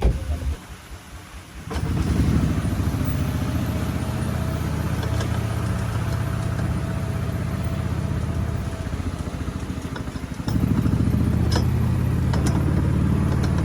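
An engine running steadily with a low pulsing rumble, starting about two seconds in and getting louder about ten seconds in.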